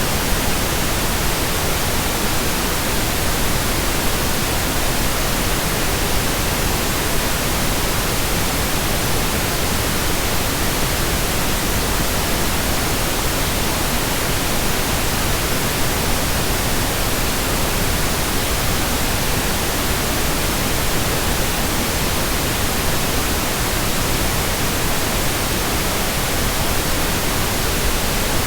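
Steady synthetic pink noise: an even, unchanging hiss spread across the whole range from low to high.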